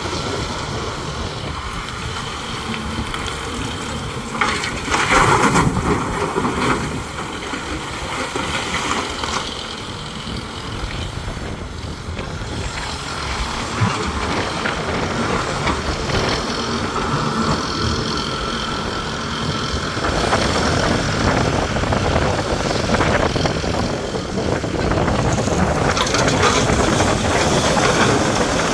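Heavy earthmoving machine's diesel engine running steadily under working load. It surges louder briefly about five seconds in and grows louder again for the last third.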